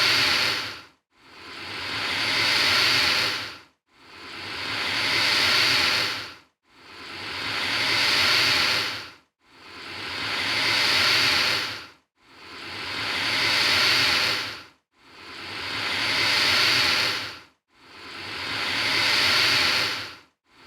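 Alligator hissing, the same breathy hiss repeated over and over, about every two and three-quarter seconds. Each hiss swells up and then stops abruptly, with a brief silence before the next.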